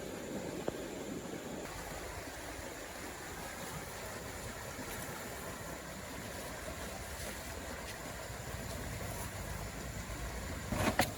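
Steady rushing of stream water, with a couple of sharp knocks near the end.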